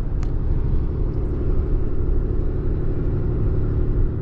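Truck driving on the road: a steady rumble of engine and tyre noise.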